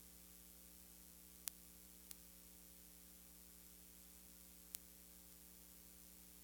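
Near silence with a steady electrical hum and faint hiss. Three short sharp clicks come about one and a half, two and nearly five seconds in.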